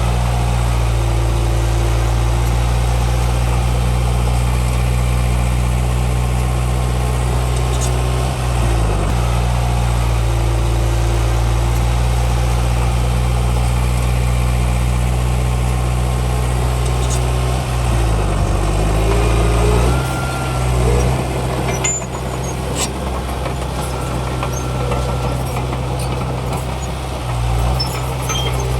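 Heavy diesel engines of earthmoving machinery running steadily. The engine note dips and shifts about a third of the way in and again around two-thirds of the way through, and a few faint clicks and clanks come in the later part.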